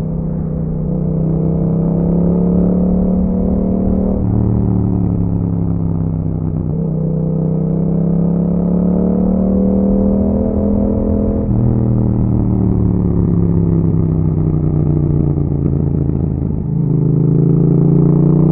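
2021 Yamaha MT-07's 689 cc parallel-twin engine through an Akrapovic exhaust, running under way, its note rising and falling with about four gear changes.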